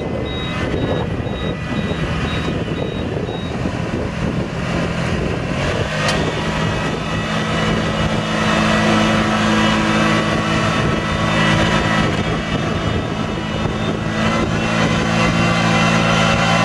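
A rice transplanter's engine is running steadily and grows louder from about five seconds in. A repeated high beep sounds at the start and stops after a few seconds.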